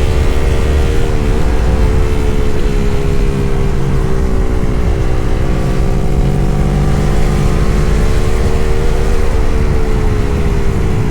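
Yamaha MT-03 motorcycle engine running at a steady cruise, its pitch dipping slightly about halfway through and rising again, over a heavy low rumble.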